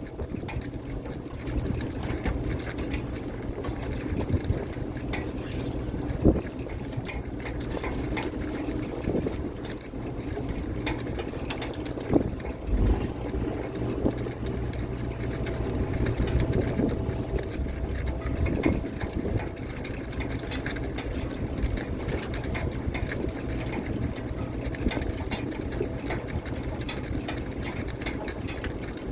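Fishing boat's engine and deck machinery running steadily, with scattered knocks and clanks on deck.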